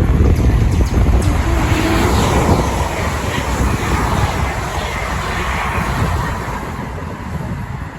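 A train running past on the line, loud with a low rumble at first and slowly fading as it moves away, with a brief rising tone about two seconds in.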